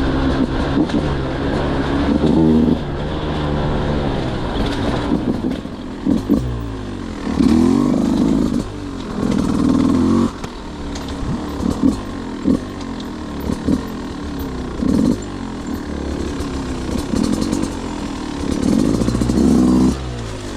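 Beta 200 single-cylinder two-stroke motorcycle engine revving up and down over and over, with several short, sharp throttle blips.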